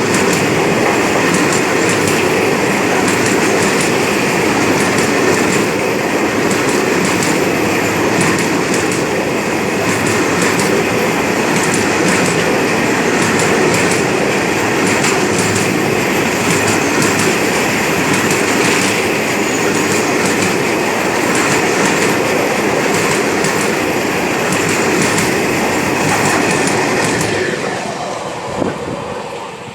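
Freight train of oil tank wagons rolling past, wheels clattering steadily over the rail joints. The sound fades away near the end as the train passes.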